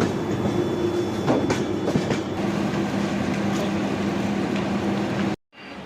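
Moving passenger train: a steady running rumble with a low hum and a few sharp wheel clicks from the rail joints. It cuts off suddenly near the end.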